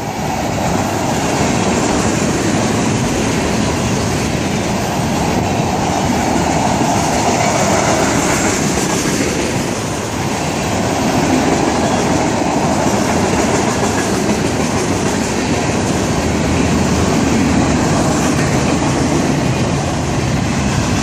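A Florida East Coast Railway freight train's cars rolling past close by, tank cars and then boxcars: a steady rumble with the wheels clattering on the rails.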